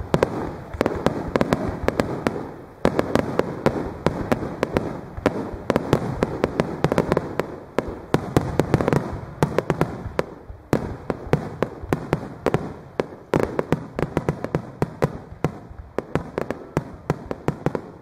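Extra-large starmine firework barrage of silver nishiki shells: a rapid, continuous run of shell bursts and sharp cracks, several a second, over a rumble, easing briefly about three seconds in and again past the middle.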